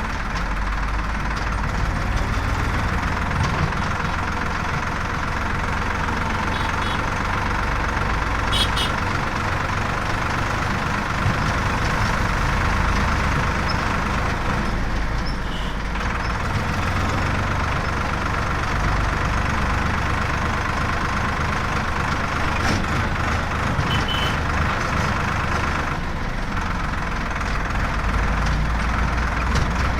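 Heavy diesel engine of a JCB loader running steadily, with a deep rumble that rises and falls slightly as it works. A few short high chirps stand out, about a third, halfway and four-fifths of the way through.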